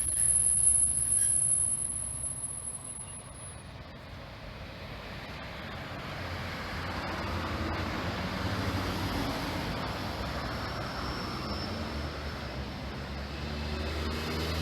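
High-pitched squeal of train wheels fading out over the first few seconds. From about six seconds in, a steady engine and rolling noise swells as a vehicle runs by.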